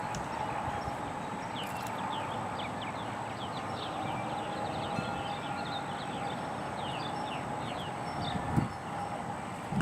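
Many birds chirping, short quick high notes, over a steady low hum, with a single thump near the end.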